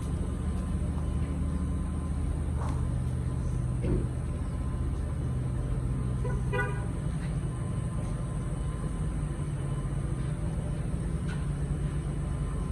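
Steady low rumble of road traffic, with a short vehicle horn toot about six and a half seconds in.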